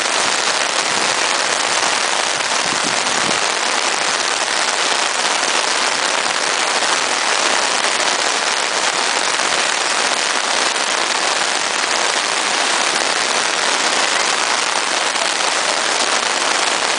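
Heavy rain falling, a loud, steady, even hiss that does not let up.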